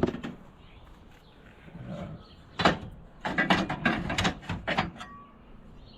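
Loose metal garden tractor parts clanking as they are picked up and handled: a single knock about two and a half seconds in, then a quick run of clanks lasting under two seconds.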